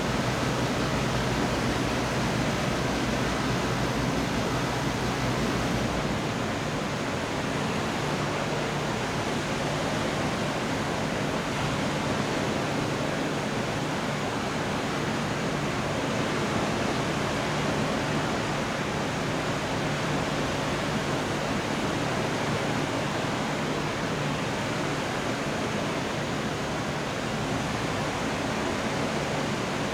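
Steady, even rushing noise with no distinct cracks or claps of thunder; a faint low hum underneath drops away about six seconds in.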